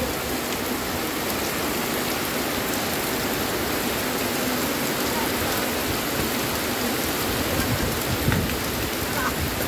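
Heavy rain pouring steadily onto wet ground, with one dull thump near the end.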